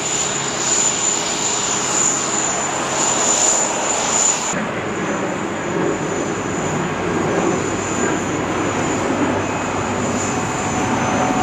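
Airbus A380 jet engines and airflow noise during landing, a steady rushing noise with a thin high whine over it at first. The sound changes abruptly about four and a half seconds in.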